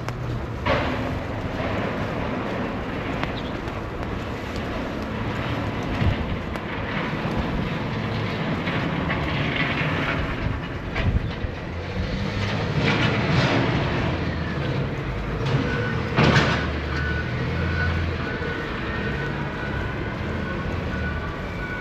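A heavy vehicle passes in a snowy city street: a steady rumble with sharp metallic squeals. A steady high whine comes in about three-quarters of the way through.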